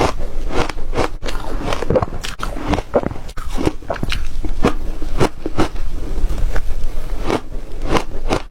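Close-up crunching of ice being bitten and chewed: a dense run of sharp crackles and cracks, several a second.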